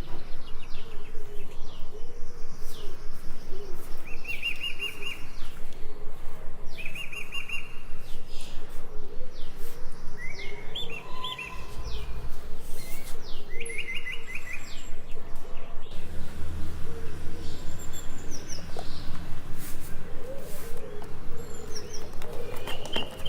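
Small birds chirping in short, quick trills several times, over a fast, even rhythm of about five strokes a second.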